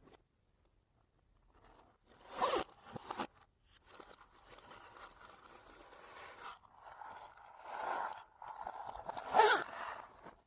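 Fluffy slime being squished and pulled by hand, with sticky crackling and tearing. Two louder pulls stand out, one about two and a half seconds in and one near the end.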